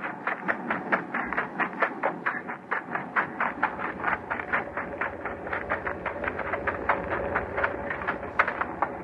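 Radio sound effect of a moving train: a fast, even clicking of wheels over rail joints, about four to five clicks a second, over a steady hum.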